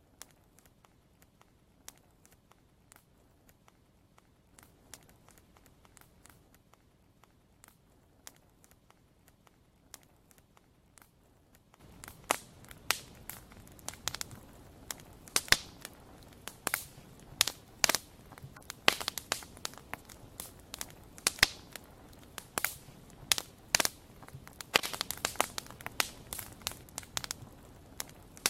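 Wood fire crackling, with sharp pops and snaps. It is sparse and faint at first, then about twelve seconds in it suddenly becomes louder and much denser, with frequent loud pops.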